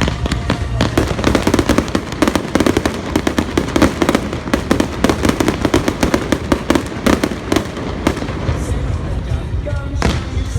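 Fireworks going off in rapid succession, a dense run of sharp bangs and crackles that thins out near the end, with music playing underneath.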